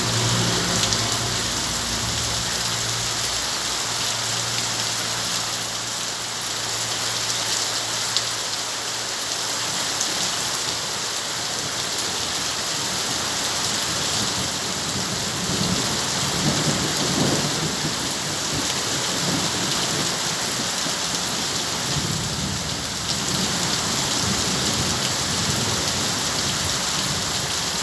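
Heavy rain falling steadily with a dense hiss. Low rumbles of thunder fade out over the first several seconds and swell again a few times later on.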